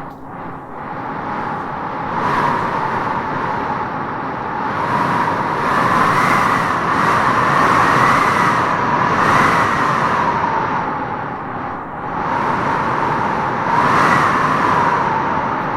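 Howling wind gusting: a steady rush with a whistling howl that rises and falls in pitch, swelling strongest around the middle and again near the end.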